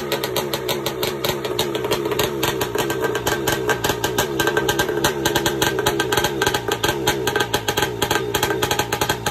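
Kawasaki 650 X2 two-stroke engine, a 650 cc twin, running steadily at a fast idle with a rapid, even string of exhaust pulses.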